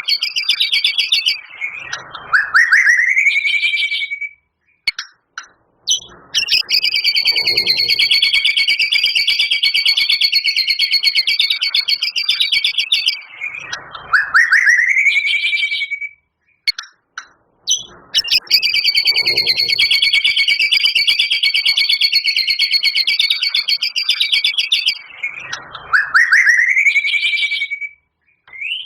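White-rumped shama singing: long, rapid trilled phrases broken by quick upward-sweeping notes. The same run of phrases comes round about every 12 seconds, with brief pauses between.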